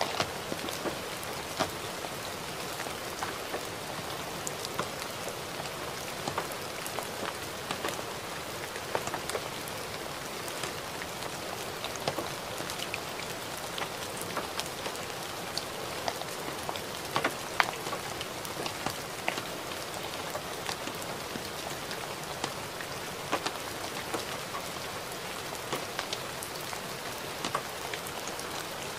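Gentle rain falling steadily: an even hiss of rainfall with many separate drops ticking at irregular moments.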